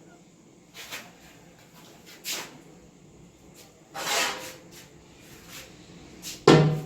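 Intermittent kitchen clatter: a handful of separate knocks and scrapes from utensils and cooking pots, the longest scrape about four seconds in and a sharp knock near the end.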